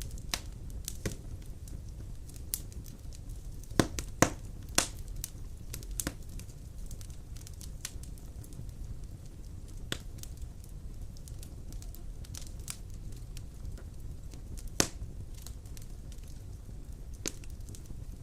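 Large logs burning in a stone fireplace: a steady low rumble of flame with irregular sharp crackles and pops, a cluster of louder pops about four seconds in and another near fifteen seconds.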